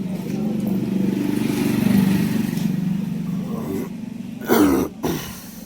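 A small petrol engine running steadily, growing louder for about two seconds and then fading. A loud, brief noise comes about four and a half seconds in, with a smaller one just after.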